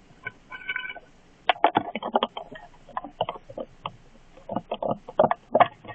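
Sticky homemade glue slime squelching and smacking as it is squeezed and pulled by hand: a quick run of irregular wet clicks, with a brief squeak about half a second in.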